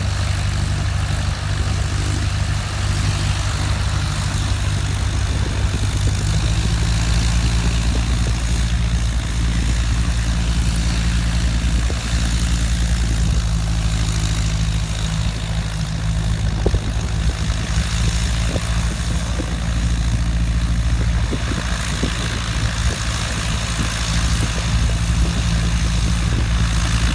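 A steady, unchanging low engine drone with an even hiss over it.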